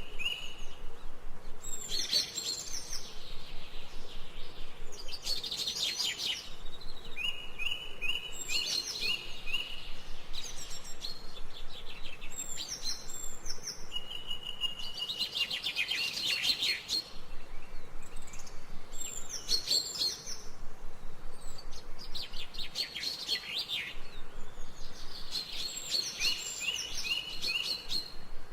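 Songbirds chirping and singing. Short runs of quick, evenly spaced notes alternate with busier, higher twittering phrases, one phrase following another every few seconds.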